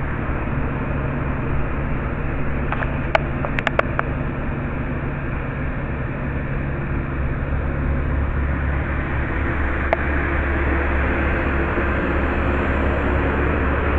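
Street sweeper running past: a steady mechanical drone and rushing noise that grows a little louder and deeper in the second half, with a few light clicks about three to four seconds in.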